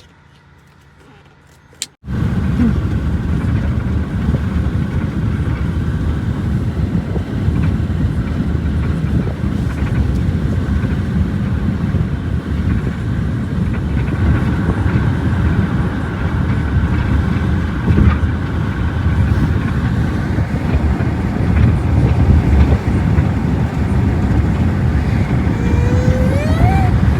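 Steady road and engine rumble inside a moving car's cabin, starting abruptly about two seconds in after a click. A brief wavering pitched sound, such as a voice, comes near the end.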